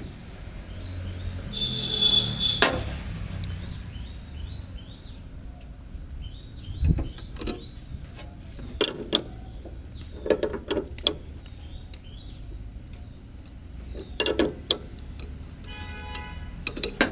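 Spanners clinking and knocking on metal in scattered, irregular taps as a bolted part is worked loose.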